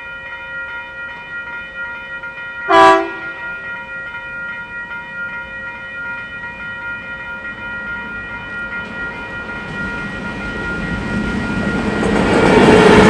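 A train horn gives one short toot about three seconds in, over a steady whine of several tones. A passing train then rumbles in louder and louder toward the end, consistent with a KiwiRail EF-class electric locomotive hauling a train.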